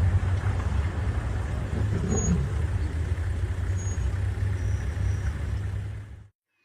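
Steady low rumble of a motor vehicle running, which cuts off suddenly near the end.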